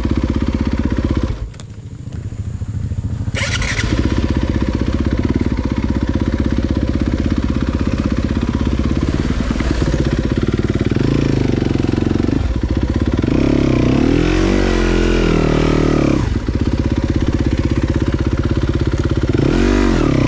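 Dirt bike engine running under way, dropping off briefly about two seconds in, then picking up again, with the revs rising and falling several times around the middle.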